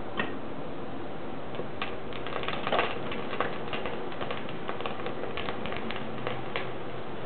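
Wood fire in a small milk-powder-can wood stove, crackling with many irregular sharp pops over a steady rushing hiss, a flurry of louder pops about three seconds in.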